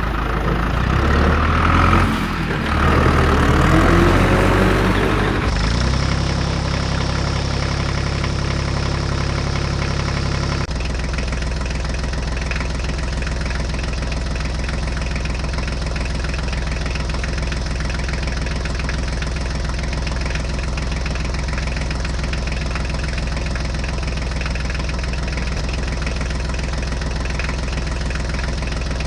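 Tractor engine idling with a steady low drone, its tone shifting slightly about ten seconds in. The first few seconds are busier and louder before it settles.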